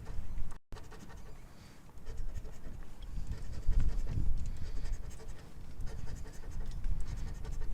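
Scratching the coating off a lottery scratch-off ticket: rough, uneven scraping strokes, with a brief dropout about half a second in.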